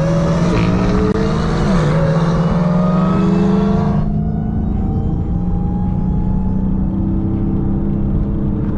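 The Hellcat's supercharged V8 running steadily at low revs, with a brief blip up and back in pitch about two seconds in. A broad rushing noise over the engine cuts off suddenly about four seconds in.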